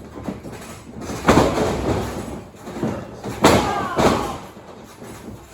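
Heavy slams of wrestlers hitting a wrestling ring, one about a second in and two more close together around three and a half to four seconds in.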